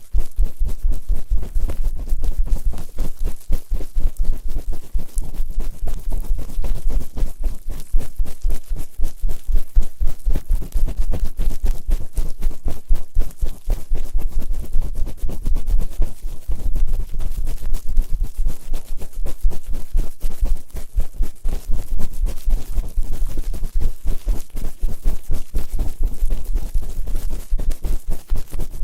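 ASMR ear-cleaning sounds: loud, close scraping and rubbing right against the microphone in fast, dense strokes, the high-speed 'gori-gori' scrubbing on both ears.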